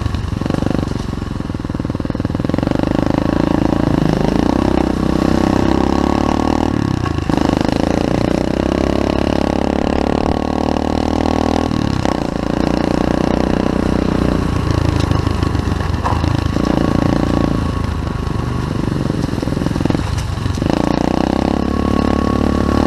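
SSR 125cc pit bike's single-cylinder four-stroke engine being ridden. The engine note rises and falls with the throttle and cuts away briefly about four times before picking up again.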